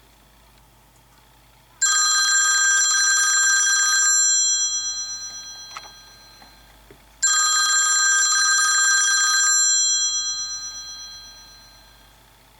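An iOS 7 preset ringtone played through an iPod touch speaker: a rapidly rattling bell like an old telephone ringer. It rings twice, about five seconds apart, each ring cutting in suddenly, trilling for about two seconds and then fading away over a few seconds.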